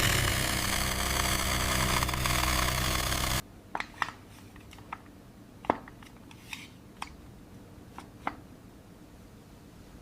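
A steady engine running sound cuts off suddenly about a third of the way in. After that come scattered light clicks and taps, from small plastic toy construction vehicles being handled and moved on sand.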